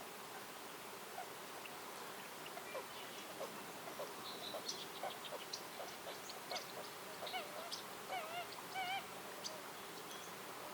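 Birds calling in woodland: a run of short chirps starting about two seconds in, and several wavering, warbled calls near the end, over a steady background hiss.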